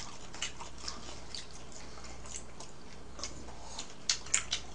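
Close-up mouth sounds of a person chewing a mouthful of tangsuyuk (crispy sweet-and-sour fried pork): irregular small wet clicks and smacks, with a quick run of louder clicks near the end.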